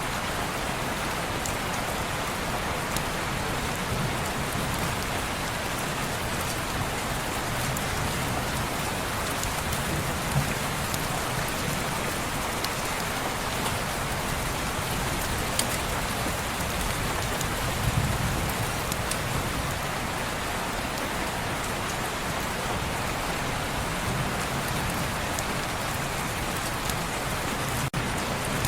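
Steady rain falling on a window pane: an even hiss with scattered faint ticks of drops and a few soft low swells.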